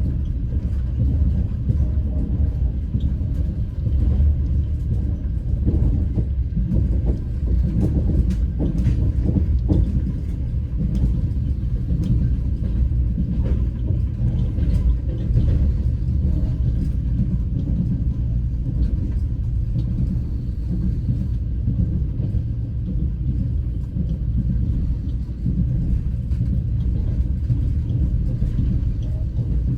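Passenger train carriage heard from inside while running: a steady low rumble of the wheels on the track, with a few faint clicks about a third of the way in.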